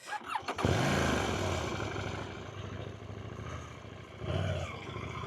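Motorcycle engine starting up from silence with a short start-up burst under a second in, then idling steadily. About four seconds in there is a brief throttle blip, after which the engine settles back to idle.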